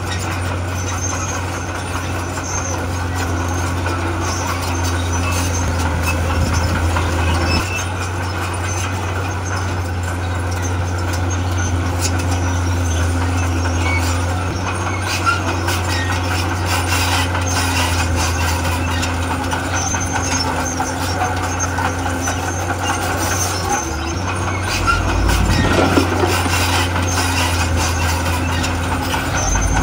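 Heavy diesel earthmoving machinery, a bulldozer and dump trucks, running steadily under load, with a low engine hum and many scattered clanks and knocks. The engine note swells lower and louder about 25 seconds in.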